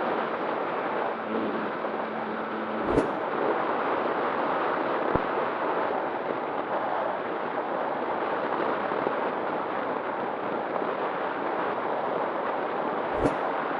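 Steady rushing of airflow over the onboard microphone of an ASW28 RC glider in flight, with two brief clicks, one about three seconds in and one near the end.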